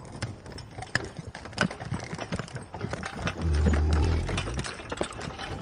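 Horse sounds: hooves clip-clopping as an uneven run of sharp clicks, with a louder low sound a little past halfway.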